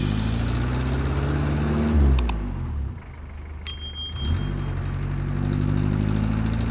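Truck engine idling with a steady low hum. It fades away about two seconds in, and two quick clicks and a single bright bell-like ding follow. The engine hum then comes back.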